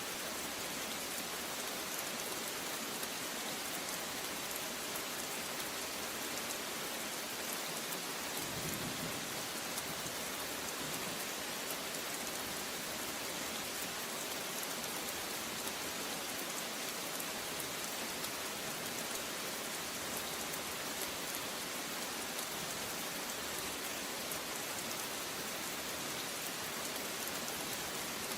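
Steady rain falling, an even dense hiss of drops. About nine seconds in, a brief low rumble of thunder swells and fades.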